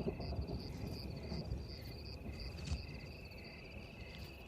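Insects trilling in the bush: a steady high trill with a shorter chirp repeating about twice a second, over a low outdoor rumble. There is one sharp click about midway.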